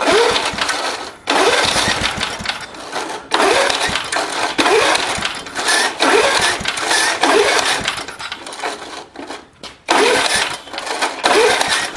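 Old 3.5 hp Briggs & Stratton lawnmower engine being pull-started again and again, a short rising whir at each tug of the recoil starter rope, with the engine turning over in loud bursts every second or two but not settling into a steady run. The owner blames the carburettor for the hard starting.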